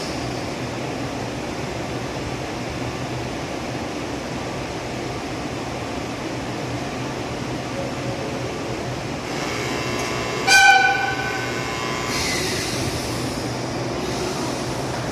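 ED76 electric locomotive standing at a station with a steady low hum; about ten seconds in it gives one short horn blast as a departure signal, followed by a brief hiss.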